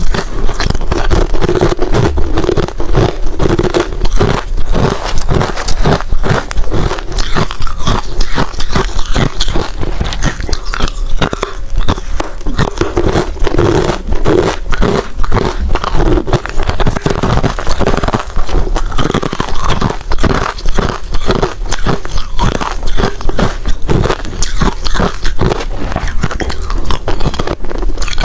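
Close-miked crunching of hard crushed ice between the teeth: rapid, continuous loud cracks and grinding crunches as mouthfuls of ice are bitten and chewed.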